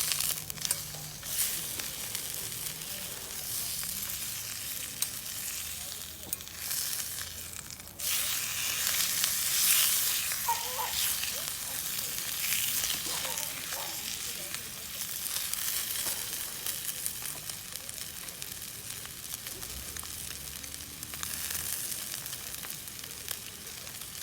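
Steak sizzling as it fries, a steady hiss that suddenly gets louder about eight seconds in.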